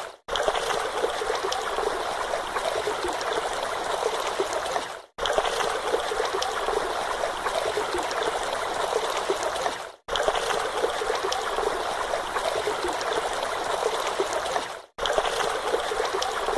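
Steady rushing, trickling water that drops out for a moment about every five seconds.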